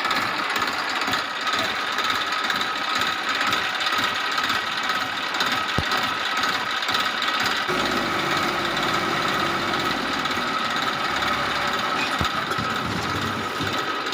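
Small motor of a toy tractor running steadily with a constant whine. About eight seconds in, a low rumble joins it.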